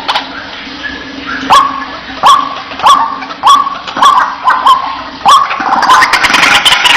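White-breasted waterhen calling, a series of sharp, evenly spaced 'kwak' notes about one every 0.7 seconds starting a second and a half in. The calls turn into denser, overlapping calling near the end.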